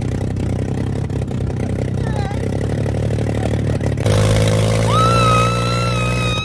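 Motorbike engine running steadily with a rapid ticking, getting louder about four seconds in. A held high tone joins near the end and cuts off abruptly.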